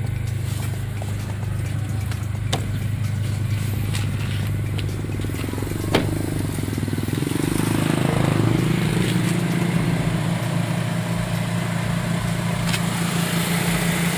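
A 2003 Honda City's 1.5-litre four-cylinder i-DSI engine, with twin spark plugs per cylinder, running at idle. Its hum steps up in pitch and gets a little louder about eight seconds in. A single sharp click comes about six seconds in.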